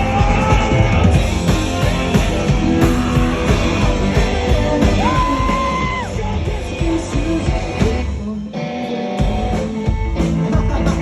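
Live rock band playing an instrumental passage between verses, with long held high notes and a brief drop in the bass and drums about eight seconds in.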